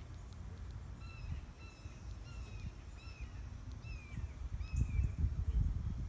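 A bird calling outdoors: short, slightly falling calls repeated about twice a second, over a low outdoor rumble that swells near the end.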